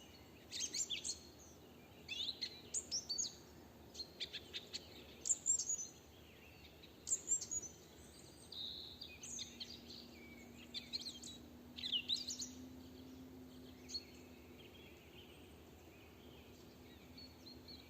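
Several songbirds singing in a spring forest: overlapping short high-pitched phrases and trills that come thick and fast for about twelve seconds, then only a few scattered notes. A faint steady low hum runs under the second half.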